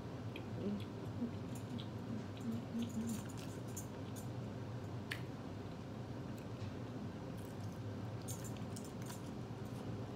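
Close-up wet chewing and small mouth clicks of a person eating a sardine on saltine crackers, with a few short low hums in the first three seconds.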